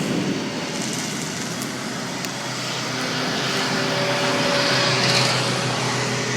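Wind rushing over the camera microphone of a road bicycle on a fast descent. A steady low hum joins about halfway through, and the rush swells a little before easing near the end.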